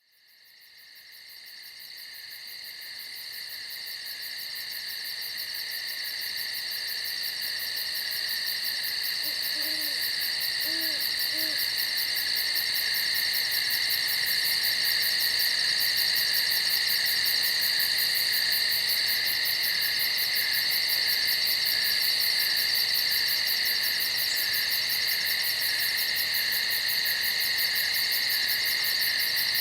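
A dense, steady chorus of night insects trilling, fading in over the first dozen seconds, with a few soft owl hoots around ten seconds in.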